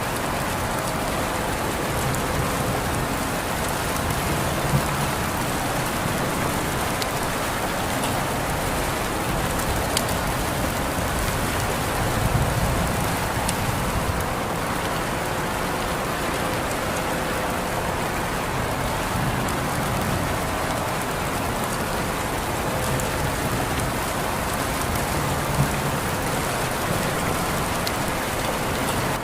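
Steady rain falling, with a few sharper drop hits now and then.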